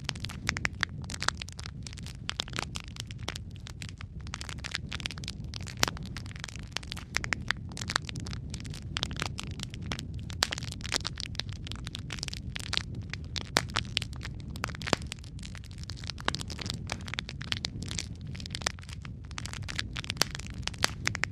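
Wood fire burning in a fireplace: dense, irregular crackling and popping of burning logs over a steady low rumble, with a few sharper, louder pops.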